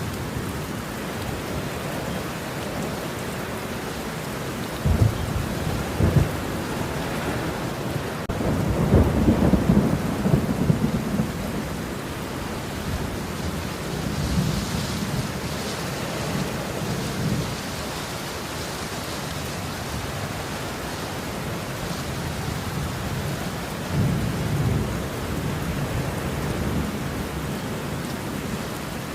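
Thunderstorm: steady rain falling, with two sharp thunder cracks about five and six seconds in, a longer rolling rumble of thunder soon after, and a softer rumble near the end.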